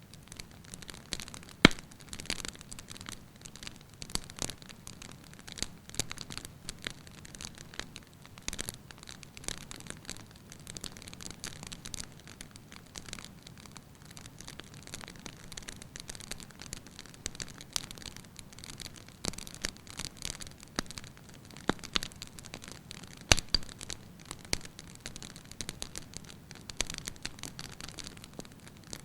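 Wood fire crackling in a fireplace: irregular sharp pops and snaps from burning logs over a soft steady hiss, with a louder pop about a second and a half in and another near the end.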